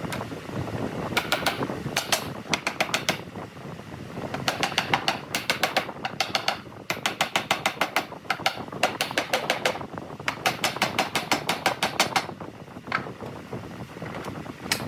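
Rapid runs of sharp clicks, about eight a second, coming in several bursts of one to two and a half seconds with short pauses between them.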